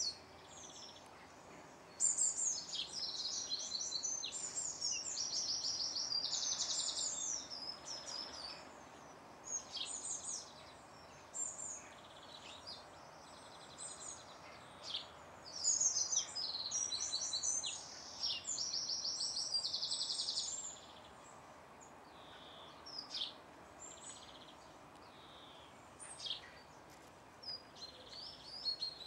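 Songbird singing outdoors: two long bouts of high, rapid warbling with buzzy trills, starting about two seconds in and again about fifteen seconds in, with scattered short chirps between them over faint steady background noise.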